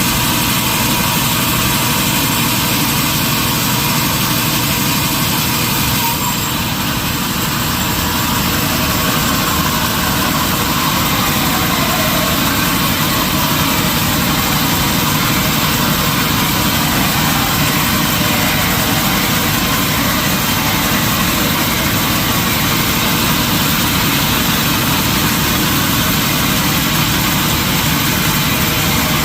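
Industrial sawmill machinery running steadily, a loud even mechanical noise with a brief slight dip about six seconds in.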